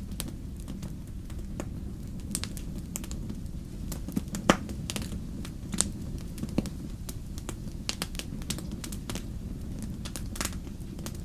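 Wood campfire crackling: a steady low rumble of burning with frequent sharp pops and snaps, the loudest pop about four and a half seconds in.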